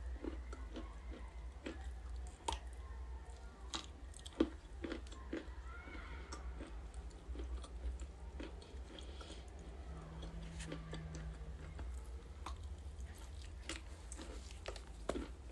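Close-up biting and chewing of something crunchy: irregular sharp crunches, a few louder bites, over a steady low hum.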